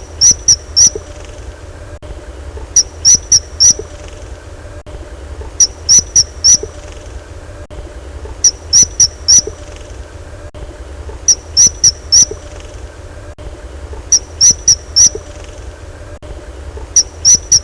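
Kingfisher calling in groups of four short, high-pitched notes, the groups repeating evenly about every three seconds, over a steady low hum.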